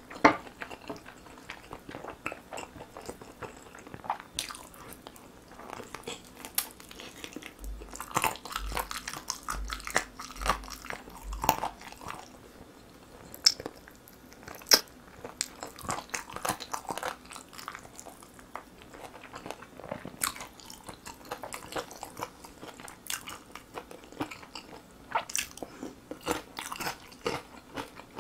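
Close-miked eating: biting and chewing grilled whole chicken legs by hand, as a run of irregular small clicks and crunches.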